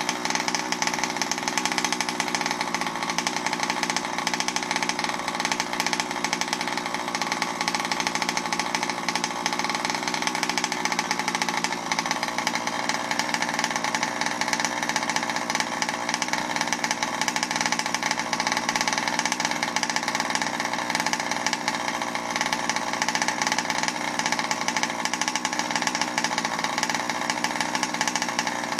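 Rovan Baja 5T 1/5-scale RC truck's 32cc two-stroke petrol engine running steadily at an even speed, without revving.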